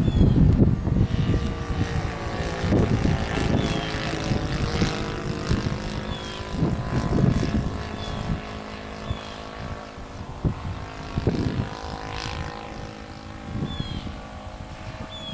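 Engine of a Balsa USA quarter-scale Cub model airplane running steadily in flight, with gusts of wind rumbling on the microphone, heaviest at the start.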